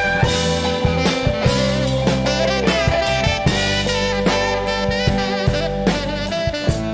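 A band playing an instrumental passage: steady drum-kit hits under long held melody notes and a sustained bass line.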